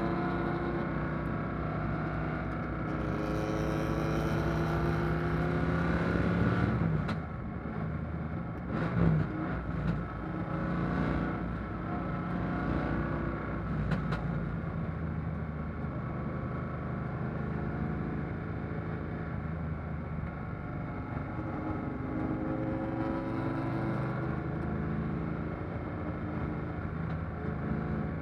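A 1957 Corvette's fuel-injected V8 heard from inside the cockpit under racing load: it climbs in pitch for about six seconds, drops sharply with a few knocks, then pulls steadily and climbs again near the end.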